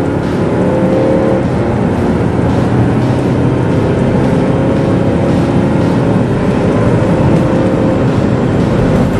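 Volvo XC90 D5's four-cylinder twin-turbo diesel under full-throttle acceleration, heard from inside the cabin together with road and tyre noise. It upshifts about a second and a half in, then the engine note climbs slowly as the revs build again.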